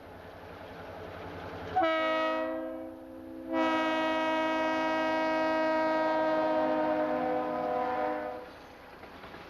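Diesel freight locomotive approaching with its engine rumbling, then sounding its air horn: one short blast, then a long blast of several tones together that holds for about five seconds. The rumble and wheel noise carry on after the horn stops.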